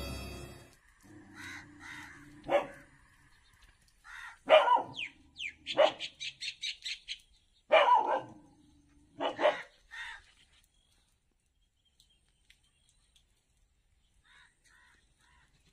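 A dog barking in separate barks, with a quick run of short, high barks, about six a second, around five to seven seconds in.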